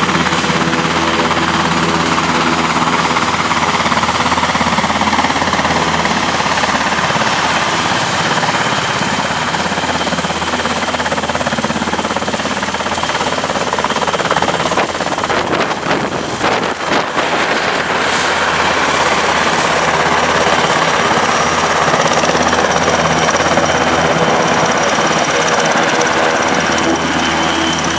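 NH90 military helicopter running close by, loud and steady: the rotor and twin turboshaft engines, with a high turbine whistle that fades out about two-thirds of the way through.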